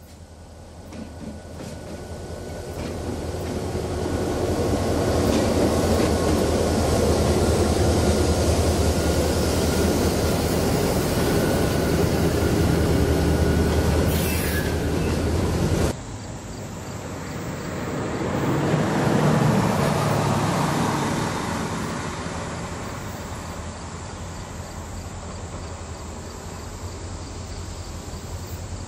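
Diesel freight train rolling past: locomotives and loaded hopper cars, a steady low rumble of wheels on rail that swells over the first few seconds. About halfway through it cuts off abruptly to a second, quieter train sound: the GP16 diesel locomotive approaching on a curved track, briefly swelling and then easing.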